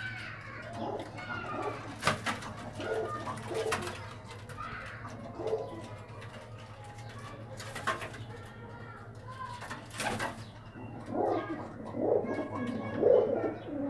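Domestic pigeons cooing in the loft in repeated low calls that grow denser near the end, with three sharp knocks or clicks along the way.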